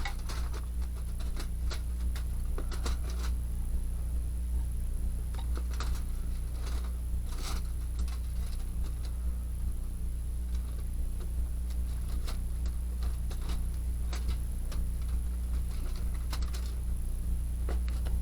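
Scattered, irregular light clicks and crackles over a steady low hum.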